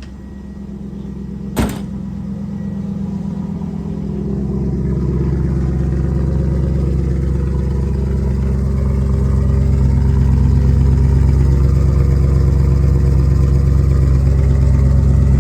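A 5.7 L LS1 V8 in a fourth-gen Camaro, muffler deleted, running at a steady speed through its open exhaust. It grows louder over the first several seconds, then holds steady. A single sharp click comes about a second and a half in.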